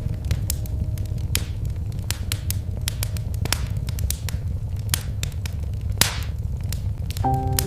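Wood fire crackling and popping at irregular intervals over a steady low rumble, with one louder pop about six seconds in. Soft piano music comes back in near the end.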